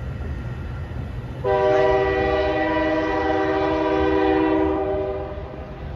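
Train horn sounding one long chord-like blast, starting about a second and a half in and fading out near the end, over a steady low rumble from the train.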